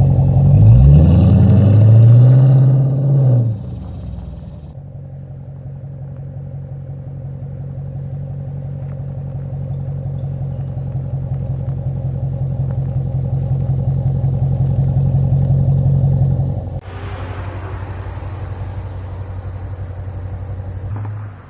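2015 Dodge Charger R/T's 5.7 L Hemi V8 through a mid-muffler delete and Cherry Bomb Extreme mufflers: revved up and down twice, loud, then settling to a steady idle. About three quarters of the way through, the engine gets quieter and a hiss joins it.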